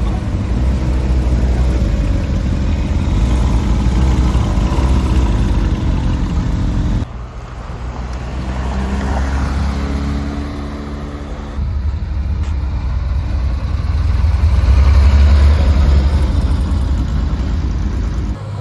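Porsche sports car engines running and revving in three short clips, with sudden changes at about 7 and 12 seconds. In the last clip the engine sound swells to its loudest at about 15 seconds and then fades, like a car passing by.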